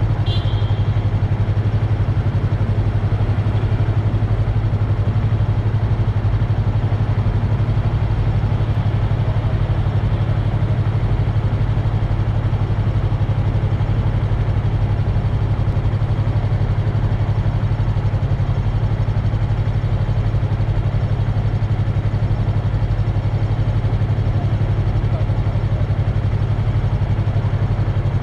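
Yamaha MT-03 motorcycle engine idling steadily, with no revving, and a brief high-pitched chirp right at the start.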